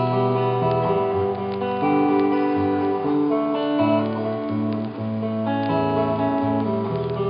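Live acoustic guitar strumming chords between the chanted vocal refrains of a song.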